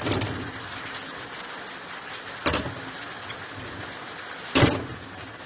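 Two sharp metallic knocks over a steady hiss, the second one louder, near the end, from hand work on a Lister SR3 diesel engine's fuel injection pump.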